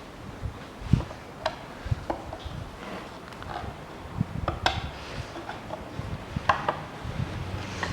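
Irregular clicks, small knocks and rubbing of hand-handled engine parts as the crankcase ventilation valve is worked loose from the engine's valve cover.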